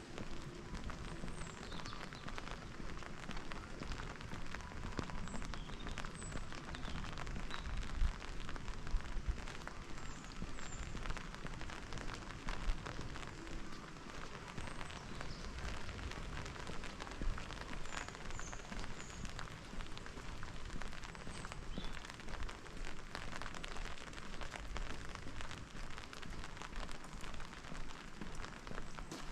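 Steady rain pattering on pavement and other surfaces, a dense, even patter of fine drops, with a few faint, short, high chirps scattered through it.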